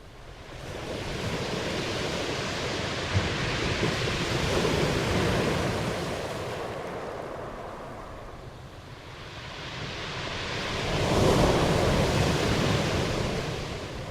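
Ocean surf washing ashore in two slow swells: one builds from about a second in and eases off, then a second, louder one rises near the end and fades.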